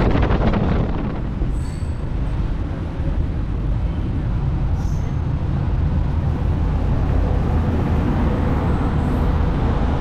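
Passenger train running: a steady, loud low rumble from the wheels and coach, with a gust of wind noise dying away about a second in.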